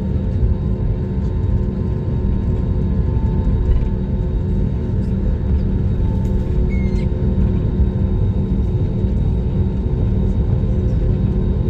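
Passenger airliner cabin noise: a steady low rumble of the engines and airflow with a constant droning hum, and a few faint clicks.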